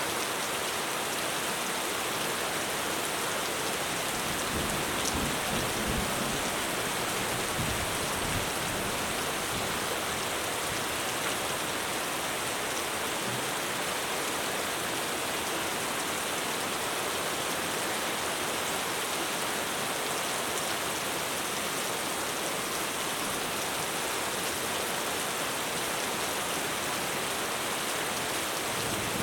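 Heavy rain pouring steadily on a roof, a dense even hiss, with faint low rumbles of distant thunder a few seconds in.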